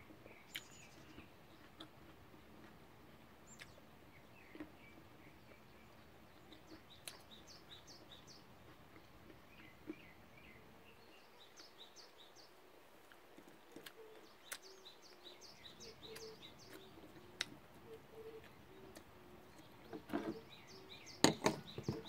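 Faint wild birds chirping and tweeting over a low background hiss, with a few sharp clicks and, near the end, a cluster of louder knocks.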